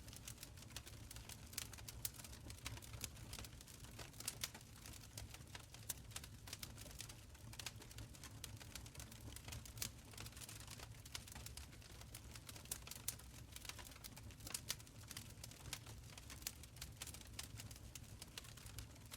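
Wood fire crackling in an open stone fireplace: irregular small pops and snaps over a faint low rumble of the burning fire.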